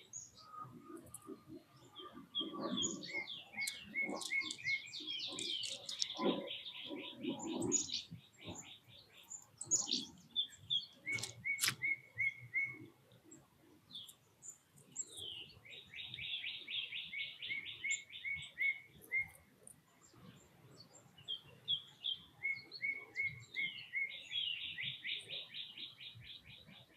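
Small songbirds singing and chirping in several bouts of fast repeated trills, with a few low knocks and rustles in the first several seconds.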